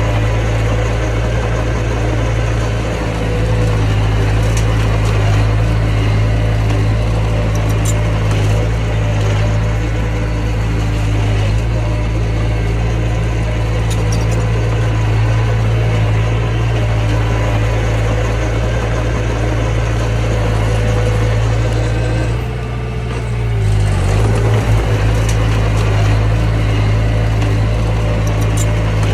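Mini bulldozer's diesel engine running steadily under load. About three-quarters of the way through, the engine note dips briefly and then comes back up.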